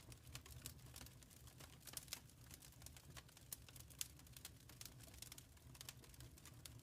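Wood fire in a fireplace crackling faintly: irregular small pops and snaps several times a second over a low, steady rumble of the flames.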